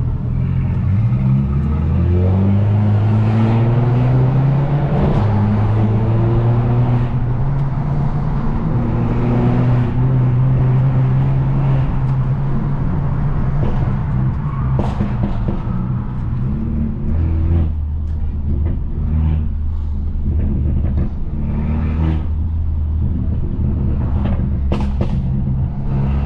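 Straight-piped turbocharged Mercedes-Benz C250 engine pulling up through the revs over the first couple of seconds, then holding a steady drone while cruising. About sixteen seconds in the pitch drops to a lower steady note, with a few sharp cracks around fifteen seconds in and again near the end.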